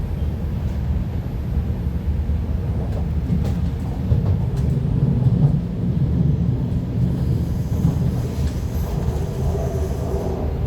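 MTR SP1900 (IKK) electric multiple unit running, with a steady low rumble of the wheels on the track and a few light clicks. About seven seconds in, a traction motor whine joins the rumble.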